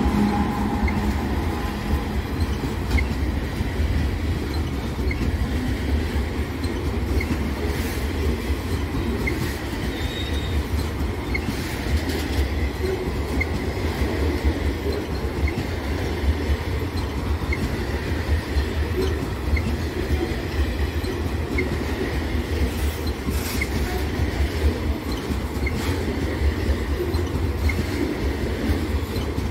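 Loaded covered hopper cars of a freight train rolling past at close range: a steady rumble of steel wheels on the rails, with faint regular clicks as the wheels pass over rail joints. The trailing locomotives' engine sound fades out in the first second.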